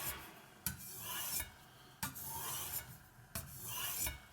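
Kitchen knife blade being stroked across a wet Spyderco medium-grit aluminium oxide bench stone, a very slow-cutting stone: a rasping scrape repeated about every 1.3 s, three strokes, each starting sharply and fading out.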